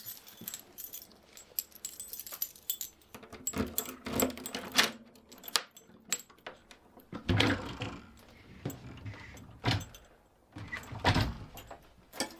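Irregular clinks, rattles and knocks of small hard objects being handled, in scattered clusters with a few louder knocks.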